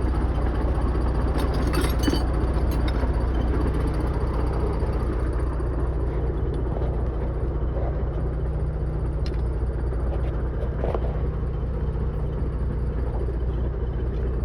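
A steady low engine drone, as from a diesel engine or generator running at idle, with a few faint clicks of tools.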